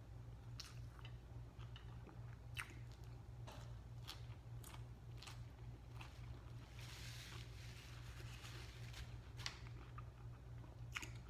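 A person chewing food with her mouth closed, picked up close, with scattered wet mouth clicks and lip smacks. A steady low hum sits underneath.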